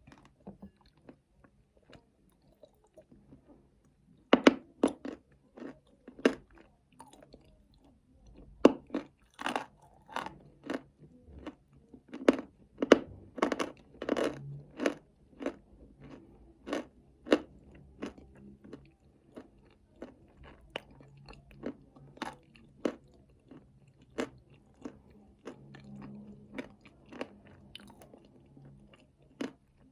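Close-miked chewing and crunching of nuts in chocolate paste. Sharp crunches start about four seconds in, come thick and fast through the middle, and thin out towards the end.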